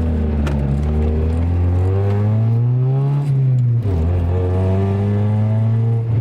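Car engine accelerating, its pitch rising for about two seconds, then falling away with a brief dip about four seconds in, like a gear change, before holding steady.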